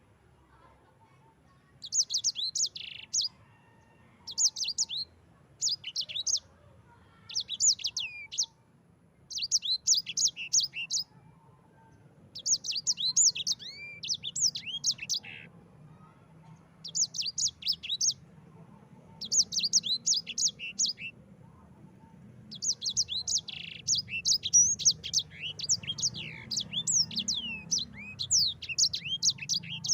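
Yellow-fronted canary (sanger, Mozambique canary) singing in quick bursts of rapid, high, sweeping chirps separated by short pauses, then a longer unbroken rolling run of song near the end.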